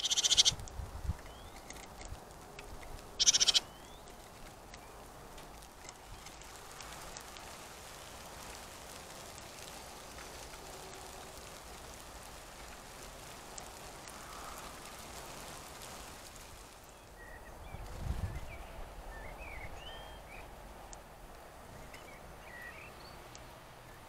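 Small garden birds at a wooden seed feeder. Near the start there are two short, loud bursts of noise; a steady hiss runs through the middle; a low thump comes past the middle, followed by a scatter of faint, short, high chirps.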